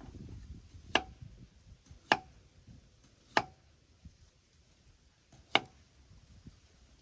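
Four sharp knocks spaced unevenly over a few seconds, each with a brief ring after it.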